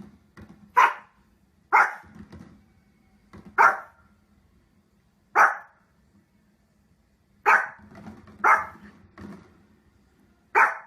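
A dog barking: seven sharp single barks, spaced irregularly about one to two seconds apart.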